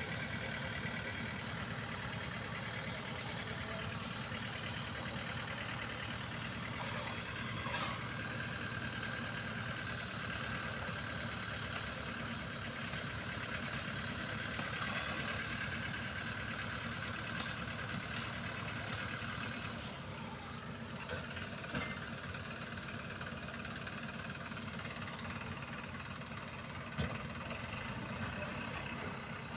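A heavy diesel engine running steadily, with a few short knocks about a quarter of the way in and near the end.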